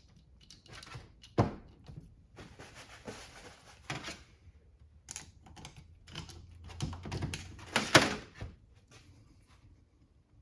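Hand tools clicking and scraping against the steel roller cage of a differential carrier bearing as it is forced apart: a few sharp metallic clicks with scraping between, the loudest click about eight seconds in.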